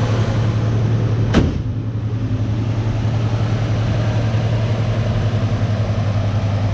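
1968 Oldsmobile 442's 400 cubic-inch V8 idling with a steady low rumble. A single sharp click comes about a second and a half in, after which the sound is a little duller.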